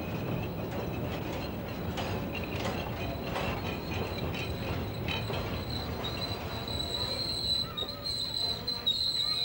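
Passenger train coaches rolling slowly along a station platform, wheels clicking and rumbling on the rails, with a high steady metallic squeal from the wheels setting in about six seconds in as the train slows to a stop.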